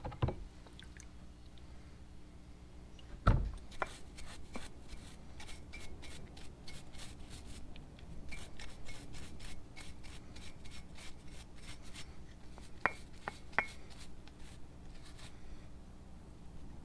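A hard knock, then a long run of short, even scraping strokes by hand on the meat grinder's metal parts, about three a second, with a couple of sharper clicks near the end.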